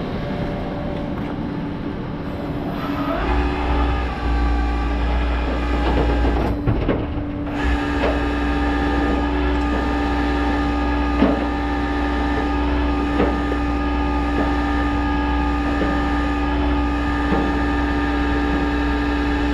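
Tow truck's hydraulic system running to work the bed or winch: a steady low rumble and a steady whine that start a few seconds in, break off briefly partway through, then carry on, with a few light knocks and clanks of the metal bed.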